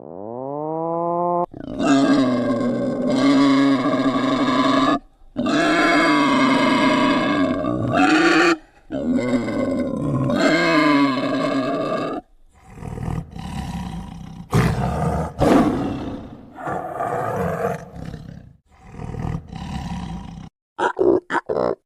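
A series of loud animal calls. First come three or four long, drawn-out pitched calls, the first rising in pitch. About twelve seconds in, these give way to rougher, noisier calls broken by short pauses, with a few short calls near the end.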